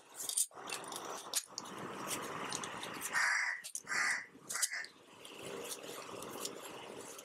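Three short, harsh bird calls in quick succession near the middle, over a soft rustle and clink of motorcycle fork parts being handled on a bench.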